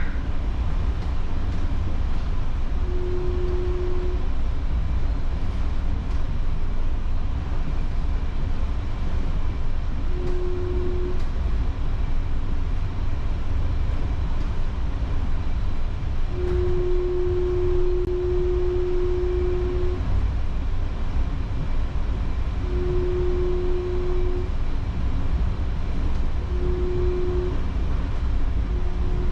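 Taipei Metro Brown Line train running on its rubber-tyred guideway, heard on board: a steady low rumble, with one steady hum tone coming and going several times, the longest stretch in the middle lasting a few seconds.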